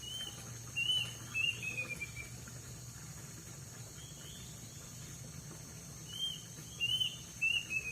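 Incuing bird singing short, high chirps in two phrases, each run ending in a quick falling twitter, with a steady high insect-like tone behind.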